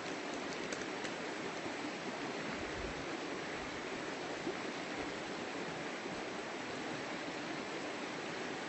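River water flowing, a steady rush with no change in level.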